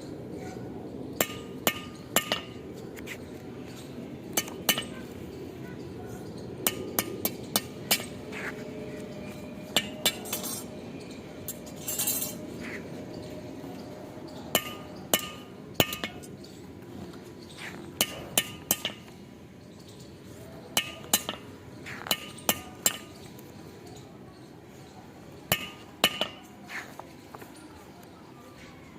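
Steel being struck with a hammer: sharp ringing clinks, some single and some in quick clusters, at an irregular pace over a steady low background noise.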